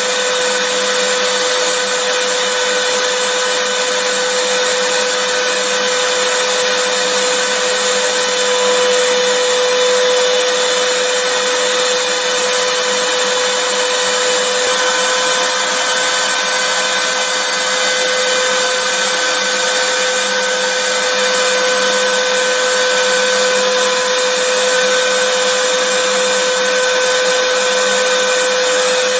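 Vacuum cleaner running continuously at a steady pitch: an even rushing of air with a constant motor whine.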